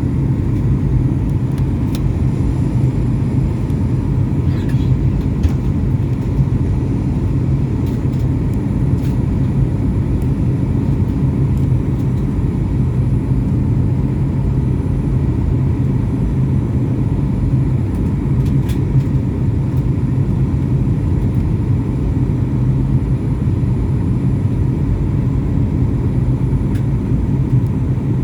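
Steady low drone of an airliner's engines and airflow heard from inside the passenger cabin, with a few faint clicks.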